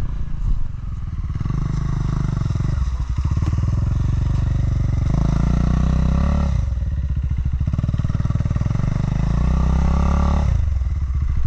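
Single-cylinder dual-sport motorcycle engine riding on an off-road trail, the throttle opened and closed in three pulls: the engine note rises with each pull and drops away as the throttle is shut.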